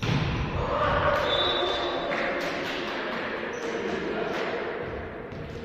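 Indoor volleyball play: a run of sharp ball strikes and thuds, with players' voices calling out over the noise of the hall.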